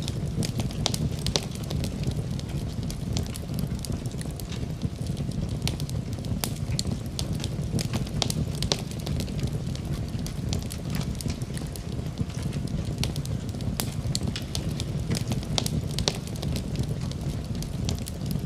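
Wood fire in a fireplace crackling, with frequent sharp irregular pops over a steady low rumble of flames.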